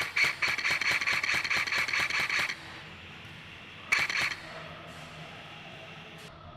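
Customised KWA Commando airsoft electric gun (AEG) firing full-auto: a burst of rapid, even shots lasting about two and a half seconds, then a short burst of under half a second about four seconds in.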